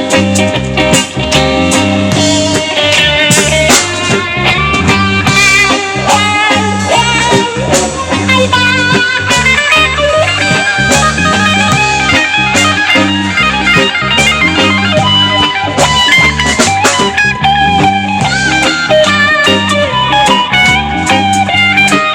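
Live band playing an instrumental passage between vocal lines: a guitar playing lead lines over bass and drum kit in a bluesy rock groove.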